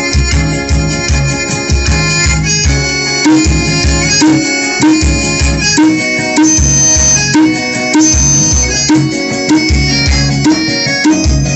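Music played loud through a compact home-built four-way speaker cabinet (Hard Power 550 woofer, 250 midrange, phenolic and titanium drivers): a heavy bass beat about twice a second under a bright melody.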